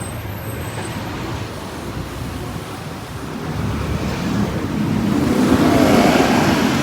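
Road traffic noise with wind rushing over the microphone; a vehicle's sound swells about four seconds in and stays up near the end.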